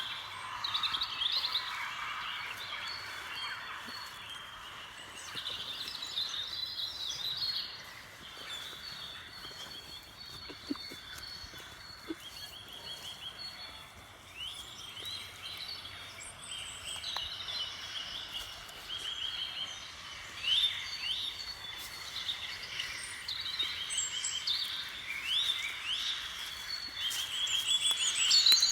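Several songbirds singing at once, overlapping rapid trills and chirps that grow busier and louder near the end, over a steady outdoor hiss.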